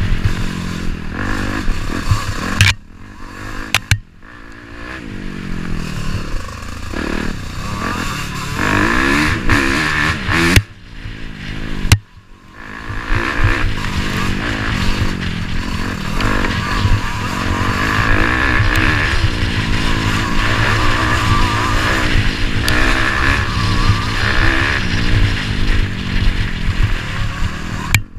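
Off-road motorcycle engine running and revving, its pitch rising and falling as the throttle opens and closes, with two brief drops in sound about 3 and 11 seconds in.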